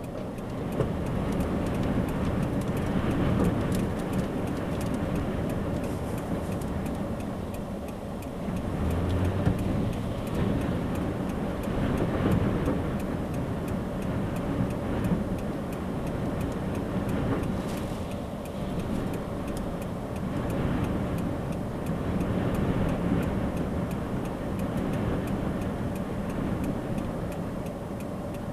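Steady car noise, mostly low-pitched, with a few faint scattered clicks.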